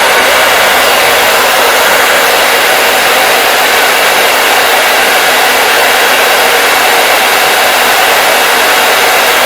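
Hair dryer running continuously, a loud, steady rushing of air with no change in speed.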